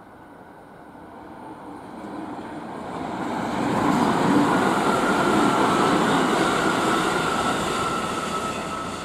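Silver multi-car electric train passing on the rails: its running noise builds, is loudest in the middle and begins to fade near the end. A steady high-pitched whine sits over the loudest part.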